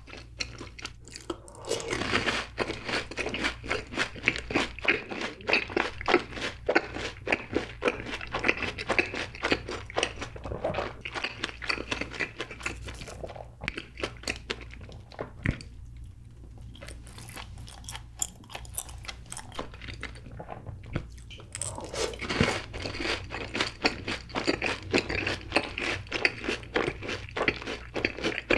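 Close-miked chewing of fried cheese balls: rapid crunching of the crisp fried coating, dense for the first half and again near the end, easing to quieter chewing in the middle.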